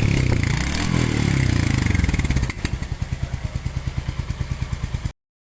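Royal Enfield Hunter 350's single-cylinder engine running at raised revs, then dropping to a steady idle thump about two and a half seconds in; the sound cuts off suddenly near the end. The engine has just been reassembled after a slightly loose tappet, the cause of its clattering when hot, was set.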